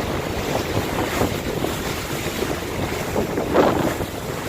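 Strong wind buffeting the microphone on the deck of a moving cruise boat, a steady rumbling rush with the boat's noise underneath, swelling briefly about three and a half seconds in.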